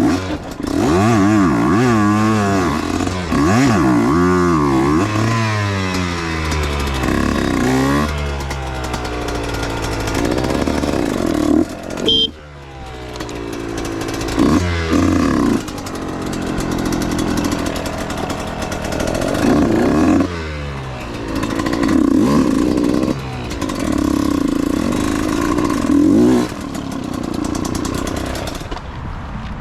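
Husqvarna dirt bike engine revving up and backing off again and again while being ridden, its pitch climbing and falling with each throttle change. It drops off briefly about twelve seconds in before picking up again.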